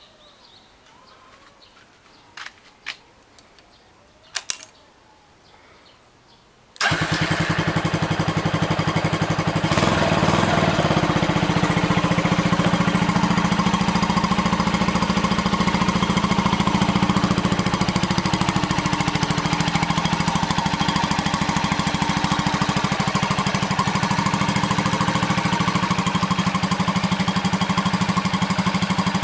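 Honda FTR motorcycle engine: a few faint clicks, then about seven seconds in it starts abruptly and settles into a steady, evenly pulsing idle.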